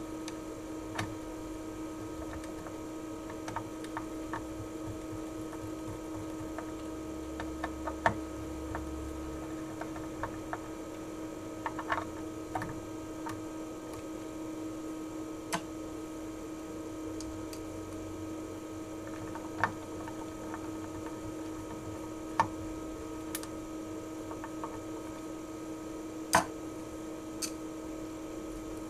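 Steady electrical hum under scattered small sharp clicks and taps of hand tools and screws as new RF power transistors are fastened to a heatsink. The loudest clicks come about 8, 12, 20, 22 and 26 seconds in.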